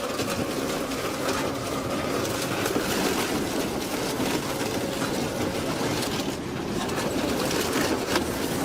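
Industrial car shredder running and grinding up scrap, a steady dense mechanical noise with a faint hum in it.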